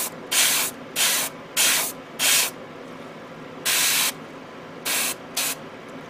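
Airbrush spraying thinned paint in short bursts of hiss, about seven bursts, with the longest near the middle and two brief ones near the end.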